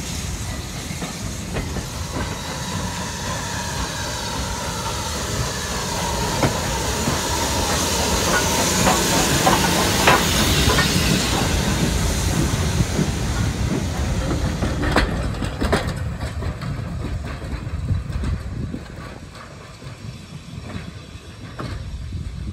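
Steam-hauled train of coaches rolling slowly along the platform: a heavy rumble and high hiss, with wheel clicks over the rail joints and a faint squeal that falls in pitch. About 15 s in the sound drops to quieter, duller knocks from the coaches.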